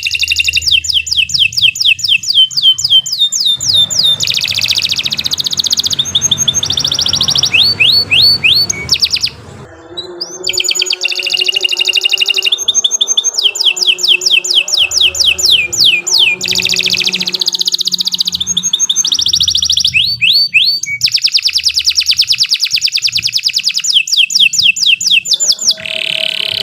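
Domestic canary singing a long, continuous song of fast rolling trills and rapidly repeated high notes, with a brief break about nine seconds in.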